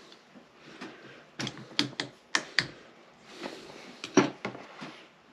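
Sharp clicks and light knocks of hand tools and metal parts being handled on a motorcycle engine during teardown: a quick cluster of about five in the middle, then a single louder knock near the end.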